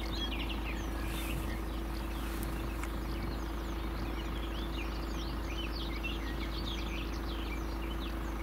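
Many songbirds singing and chirping at once: short, quick, overlapping notes throughout, over a steady low hum.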